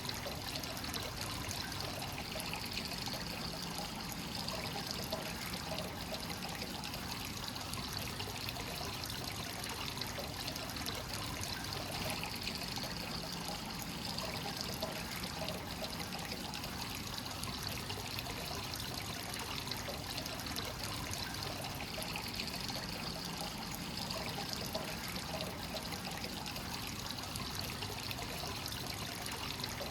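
Hot spring water flowing steadily into a bath from a free-flowing source, a continuous trickling, pouring splash.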